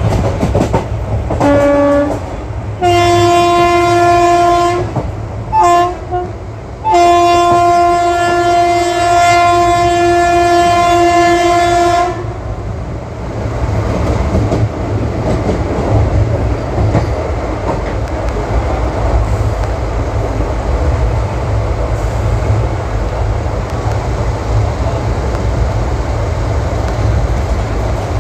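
WAP-4 electric locomotive's horn sounding several times: a short note, a blast of about two seconds, a brief toot, then a long blast of about five seconds. Underneath runs the steady rumble of the ICF coaches running on the track, which continues alone after the horn stops.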